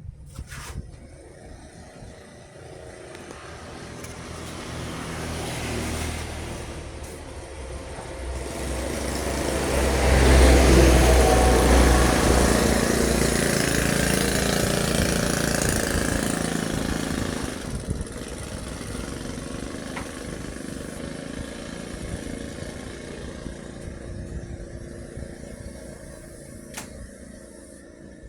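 A heavy tractor-trailer truck driving past. Its engine and road noise build up for about ten seconds, are loudest with a deep engine rumble around the middle, then fade slowly away.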